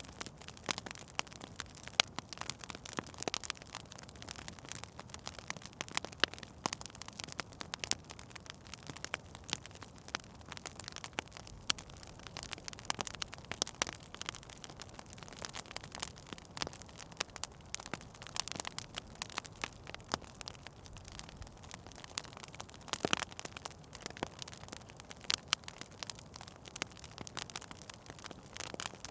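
Wood fire burning in a fireplace, with steady irregular crackles and pops over a low hiss.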